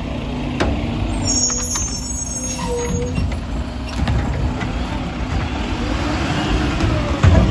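Mack LR garbage truck with a McNeilus Meridian body running, with brief high squeals in the first few seconds. Near the end its pitch rises and falls, and a loud thump comes just before the end.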